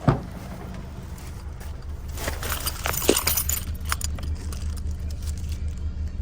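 A sharp knock right at the start, then clicks and rattling about two seconds in, over the steady low hum of a car.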